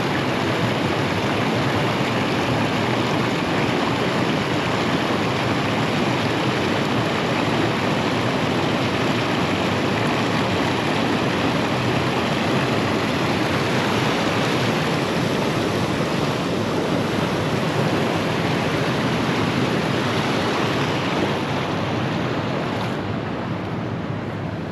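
Steady rush of fast-flowing creek water, a loud even noise that softens slightly near the end.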